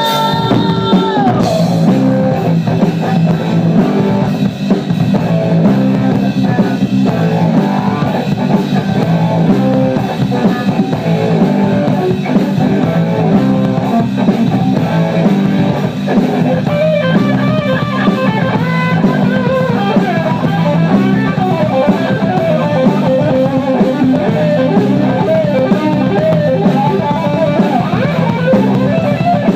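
Live rock band playing an instrumental passage: guitar and drum kit over a steady beat, with singing trailing off in the first second and a guitar lead line coming in about halfway through.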